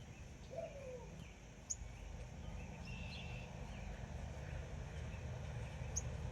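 Backyard birds chirping in short, scattered calls, with two sharp high chirps, over a steady low rumble.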